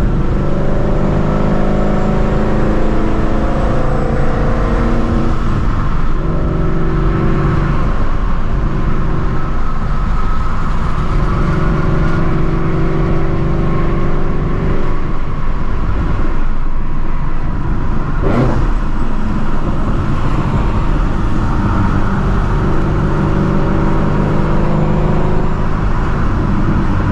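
Supercharged Shelby GT350's 5.2-litre flat-plane-crank V8 running while cruising, its note shifting up and down gently several times with the throttle, over steady road noise.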